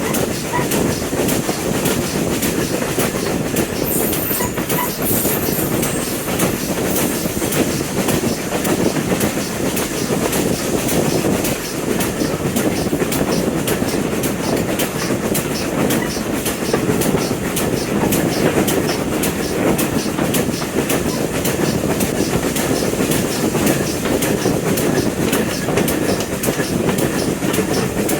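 Train running steadily along the track, its wheels clicking rhythmically over the rail joints.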